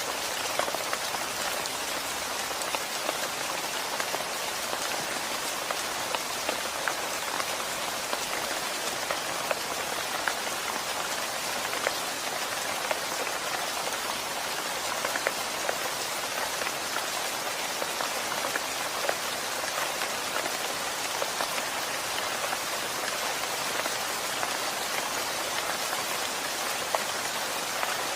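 Steady rain falling, with a dense patter of individual drops striking close by.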